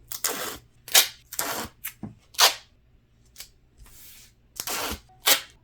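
Duct tape being pulled off the roll in a series of short rips at uneven spacing, some louder than others.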